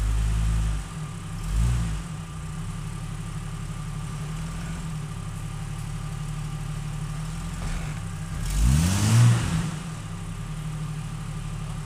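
Jeep engine idling, with short throttle blips in the first two seconds and one rising rev about eight and a half seconds in.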